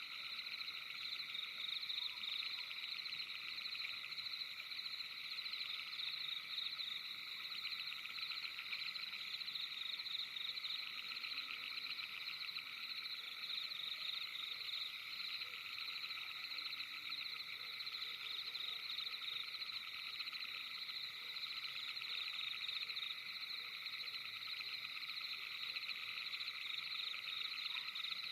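Night chorus of many frogs trilling together, a steady dense wall of fast overlapping trills in a few high-pitched bands.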